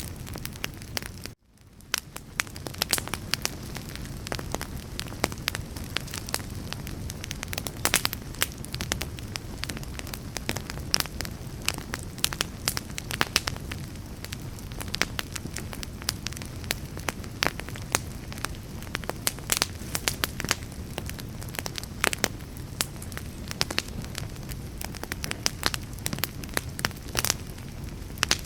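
Wood fire burning: a steady low hiss with frequent sharp crackles and pops from the burning wood. About a second and a half in, the sound cuts out briefly and fades back in.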